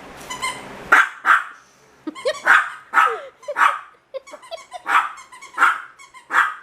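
Chihuahua puppy barking in short, sharp yaps, about eight of them in irregular bursts, with softer grumbles between them.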